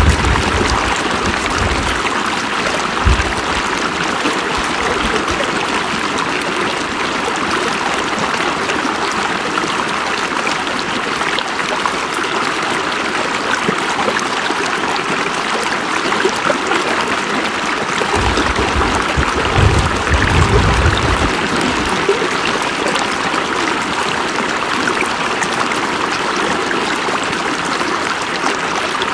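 River water rushing and babbling steadily over rocks, with short low rumbles near the start, about three seconds in, and again about two-thirds of the way through.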